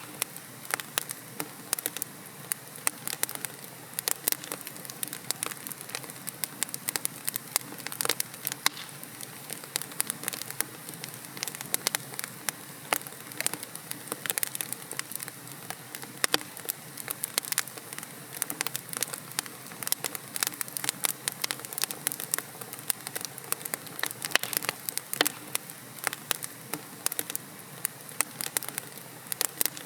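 Wood fire in a fireplace crackling: dense, irregular sharp pops and snaps from burning logs over a steady low hiss.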